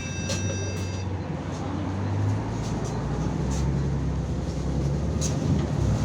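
City bus heard from inside while it drives: a steady low engine and drive hum whose pitch shifts a couple of times, with road rattle. A high steady tone stops about a second in.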